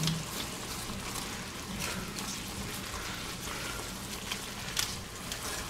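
Black bean sauce and ramen noodles sizzling and crackling in a hot wok as they are stirred with a wooden utensil, a steady hiss dotted with small pops.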